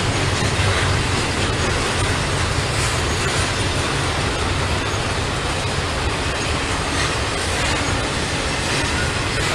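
Freight train rolling past: a steady rumble and rattle of wheels on the rails, with occasional clicks.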